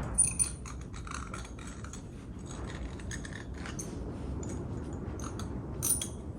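Irregular light metallic scraping and clicking of a hand tool working at corrosion inside a motorcycle brake caliper.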